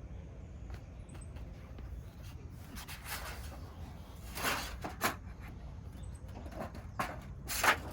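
A few short scraping and rustling handling sounds, the loudest near the end, over a steady low outdoor background.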